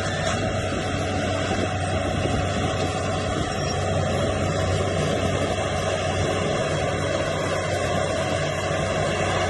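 Heavy earthmoving machinery engine running steadily with a constant low hum.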